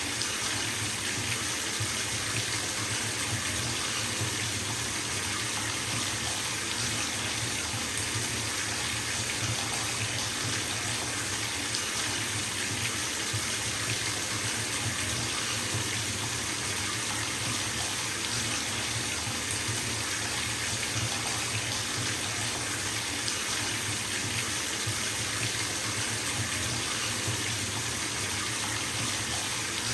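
Bathtub filling from a running tap: water pouring steadily into the tub in an even, unbroken hiss.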